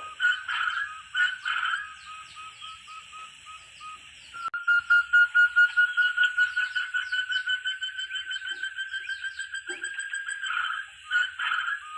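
Forest partridge (puyuh hutan) calling: fast runs of repeated whistled notes, about five a second, mixed with other birds' chirps and a steady high insect-like tone. The calling breaks off suddenly about four and a half seconds in and starts again louder.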